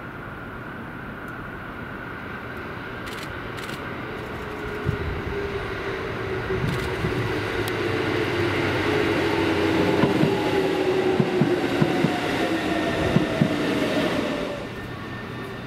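Kotoden 1080-series electric train (ex-Keikyu 1000) running past. A motor whine falls slowly in pitch over several seconds while the wheels clack over rail joints. The sound grows louder, then drops off suddenly near the end.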